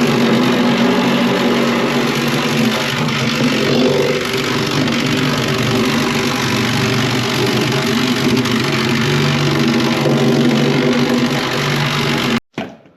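Small petrol engine of a vibrating plate compactor running steadily while packing down a stone floor base. It cuts off suddenly near the end.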